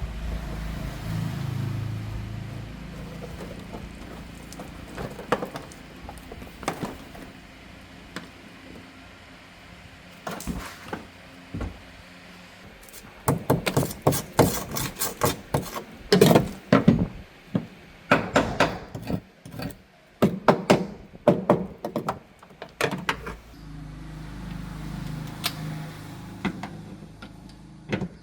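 A long run of sharp knocks and clatters, as of car parts and tools being handled during disassembly, with a low rumble in the first few seconds and again near the end.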